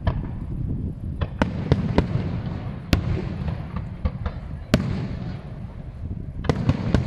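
Fireworks display: a run of sharp bangs at uneven intervals over a continuous low rumble, with the loudest cracks about three and five seconds in.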